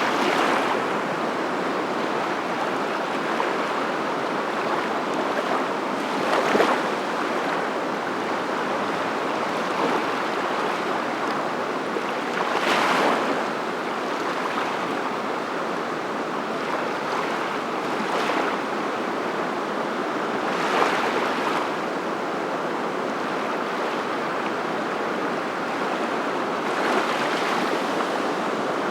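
Surf washing in: a steady rush of water, swelling briefly about every five or six seconds.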